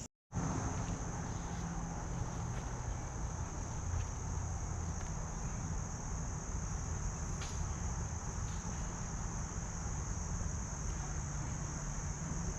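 A steady high-pitched chorus of insects trilling without a break, over a low steady rumble. The sound drops out completely for a moment at the very start.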